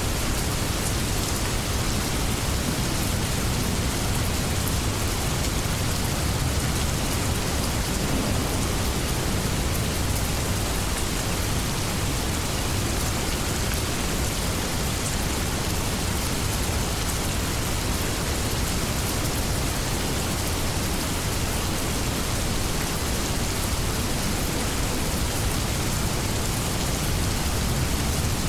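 Steady heavy rain falling on leaves and surfaces, with a low rumble underneath that may be distant thunder.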